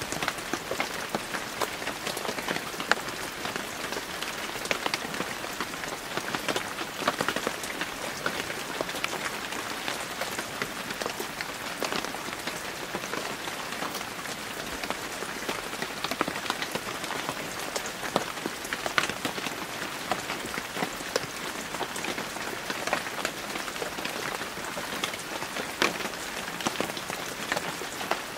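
Steady rain falling, a dense patter of many small drop impacts on a surface.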